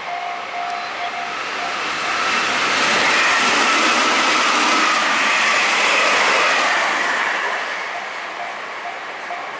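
Japanese level-crossing warning bell ringing in a steady, rapid on-off rhythm. An electric train then passes over the crossing, its noise swelling and drowning the bell for several seconds. It fades as the bell comes through again near the end.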